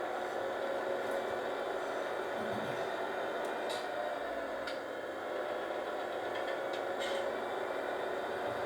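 Steady machine drone with a slowly wavering hum, and a few light clicks over it.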